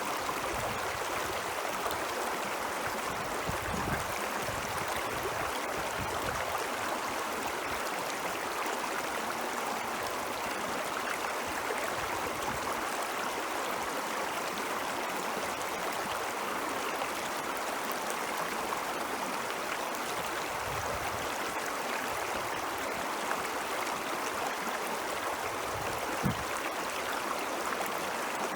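Stream of snowmelt water flowing, a steady even rushing with a few brief low surges now and then.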